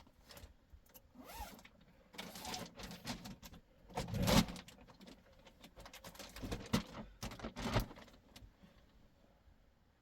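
Handling noises: scattered rustles and knocks, loudest about four seconds in, dying away over the last two seconds.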